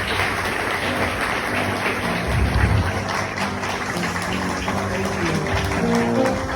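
Audience applauding steadily, with a few voices heard over the clapping in the latter part.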